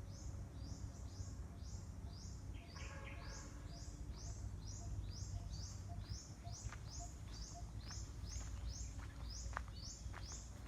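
A high chirp repeated evenly, about two to three times a second, over a steady low rumble.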